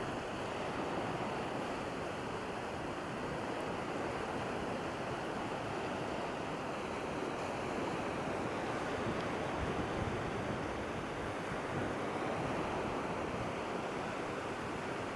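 Steady wind and surf along the shore, an even hiss.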